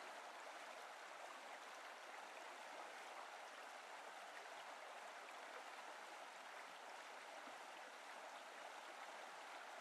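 Near silence: a faint, even hiss that cuts off suddenly at the end.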